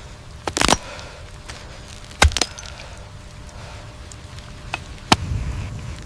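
A handful of sharp knocks or cracks, the loudest about two seconds in, over a steady low rumble.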